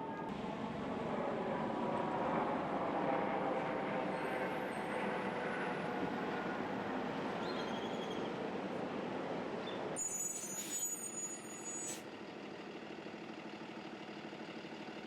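Street traffic noise of vehicles passing, with a brief high-pitched squeal about ten seconds in. After that the background drops to a quieter steady hum.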